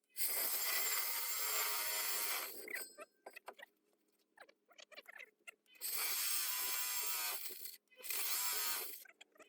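Water-cooled diamond core drill running and drilling in spells: a run of about two and a half seconds, a pause of about three seconds with scattered small knocks, then two shorter runs near the end.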